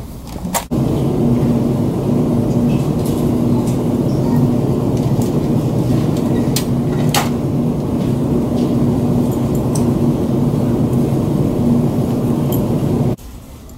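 Steady low rumble of a running vehicle with a droning hum, starting abruptly just under a second in and cutting off abruptly near the end.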